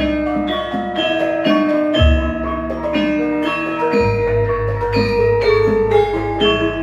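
Javanese gamelan playing: bronze metallophones and gong-chimes strike a steady, busy melody of ringing notes, a few per second. Deep gong strokes fall about two seconds and four seconds in, the second ringing on with a slow waver.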